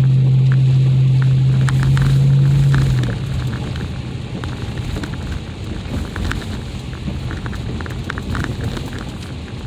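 A vehicle driving over an ice-covered road, its tyres crackling and crunching on ice. A steady low drone is loud at first and drops away about three seconds in.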